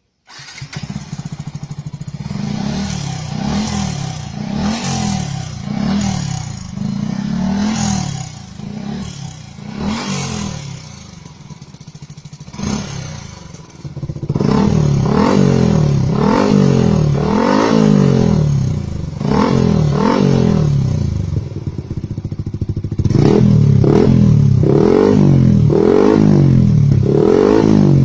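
Yamaha R15 v3 motorcycle's 155 cc single-cylinder engine, breathing through an aftermarket racing exhaust muffler, starts up and is revved with quick throttle blips about once a second. The revs get louder from about halfway and louder again near the end.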